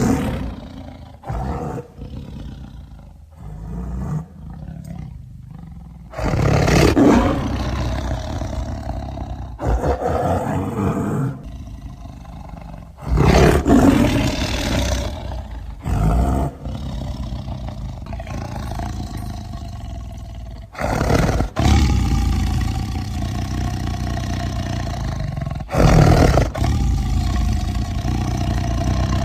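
Smilodon (sabre-toothed cat) sound effects: a string of big-cat roars and growls, cut one after another with abrupt starts and stops, quieter and choppier in the first few seconds.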